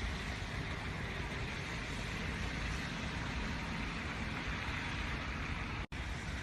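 Steady road noise of car traffic, an even rushing sound with no clear engine note. It cuts out for an instant about six seconds in.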